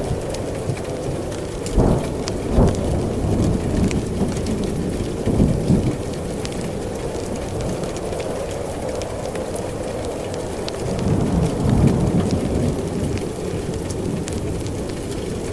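Steady heavy rain with rolling thunder. Two sharp low cracks come about two seconds in, and a longer rumble swells near the eleven-second mark.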